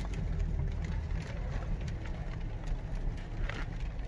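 Car cabin noise while driving: a steady low rumble of engine and tyres on wet road, with a few scattered light ticks.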